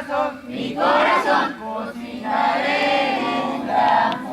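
A group of young scouts singing a campfire song together in unison, in phrases a second or so long; it is a repetition song, sung line by line and echoed by the group.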